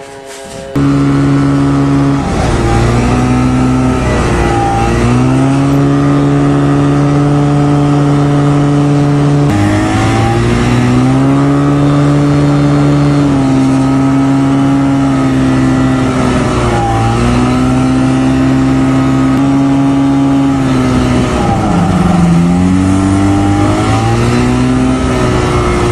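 An engine running hard close by, starting abruptly just under a second in. Its pitch drops and climbs back several times, as the throttle is eased off and opened up again.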